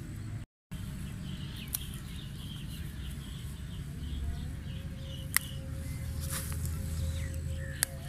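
Faint chirping of small birds over a low wind rumble, with three sharp snaps or clicks spread through.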